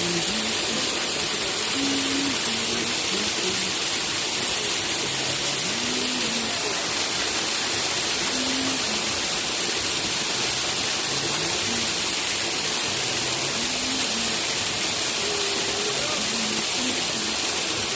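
Steady rush of a waterfall, Bamni Falls: water falling in a constant, even roar.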